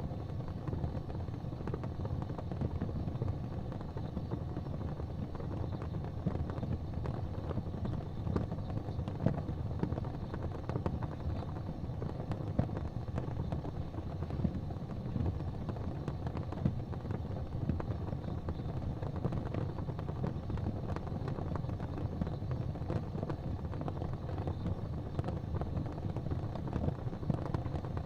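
Fireplace fire crackling, with frequent small pops over a steady low rumble.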